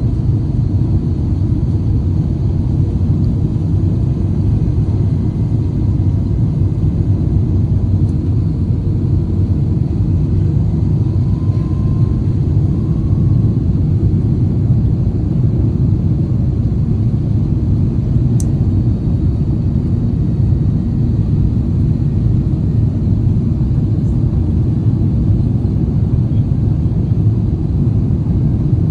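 Steady low rumble of a jet airliner heard from inside the passenger cabin, engines and airframe running evenly with no rise or fall.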